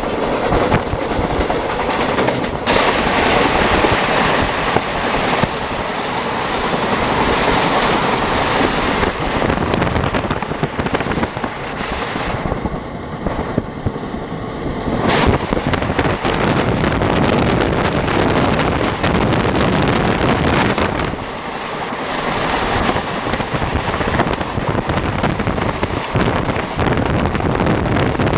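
Indian Railways express passenger coach running along the track: a steady wheel-and-rail rumble with frequent short knocks. For about three seconds in the middle the high hiss drops away.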